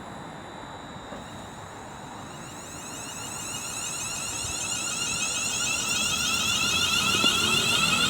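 Class 350 Siemens Desiro electric multiple unit pulling away, its traction inverters giving a many-toned whine that rises in pitch as the train speeds up. The whine grows louder from about three seconds in.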